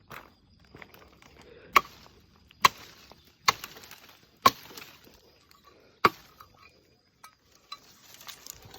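Five sharp chopping strikes into the wood of a fallen leucaena tree, a little under a second apart, each with a brief ring. Lighter rustling of branches comes between the strikes.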